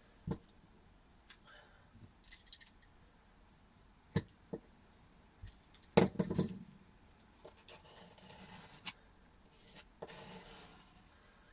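Scattered clicks and knocks as wooden dowels are handled and pushed into adhesive-filled injection holes in a plywood camper floor, the loudest knock about six seconds in. Two short stretches of rustling follow near the end.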